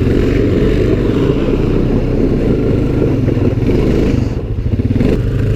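Honda ATV engine running steadily under way, easing off briefly about four seconds in.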